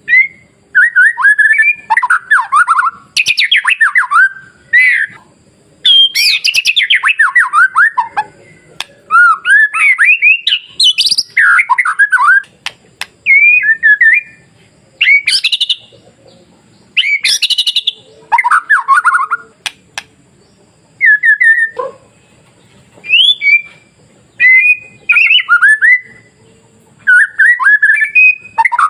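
White-rumped shama (murai batu) singing loudly: phrase after phrase of varied sweeping whistles and rapid trills, with short pauses between phrases.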